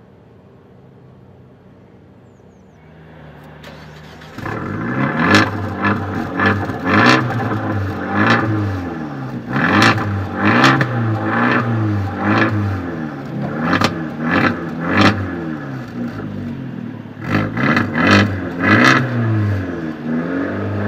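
Abarth 124 Spider's turbocharged 1.4-litre four-cylinder engine and exhaust, faint at first, then loud from about four seconds in and revved repeatedly in short blips, the pitch rising and falling about once a second.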